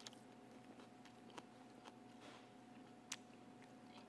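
Near silence: faint steady room hum with a few soft clicks from a man chewing a mouthful of crusty bánh mì, the plainest about three seconds in.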